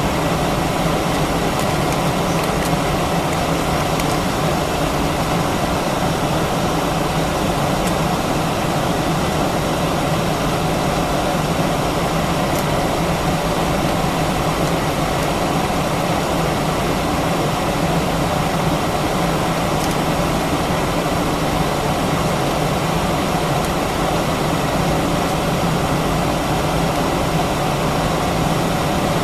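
Steady cabin drone of an Airbus A319 with its IAE V2500 engines running, mixed with the hiss of the cabin air system, heard from inside the cabin. The level holds even, with a low hum under the hiss.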